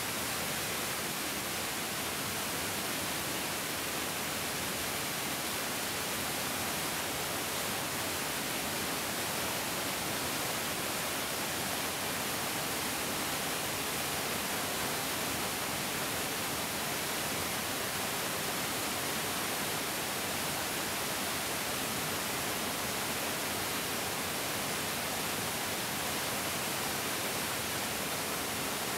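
Mountain stream rushing steadily over rocks, an even, unbroken hiss of flowing water.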